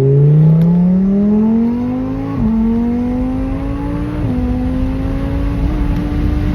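Twin-turbo Audi R8, tuned to about 1675 hp, accelerating hard under full throttle. The engine note climbs steadily, drops sharply at upshifts about two and four seconds in, then rises slowly and levels off.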